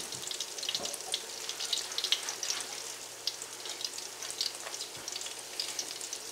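Salmon patties shallow-frying in oil in a cast iron skillet over medium heat: a steady sizzle with many quick, irregular crackling pops.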